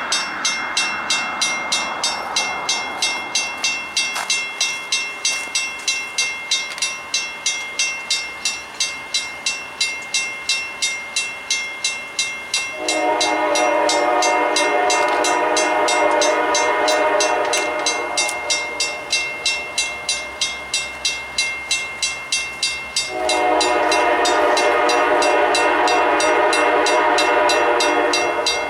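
Railroad crossing bells ringing steadily at about two to three strikes a second, while an approaching locomotive's Nathan K5LA five-chime horn sounds two long blasts, the second starting about 23 seconds in and still held at the end.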